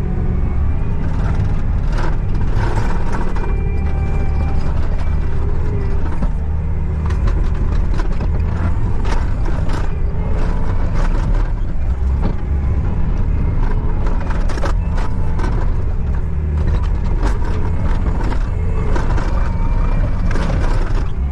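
The engine of a bucket loader running steadily, with frequent clanks and rattles from the machine.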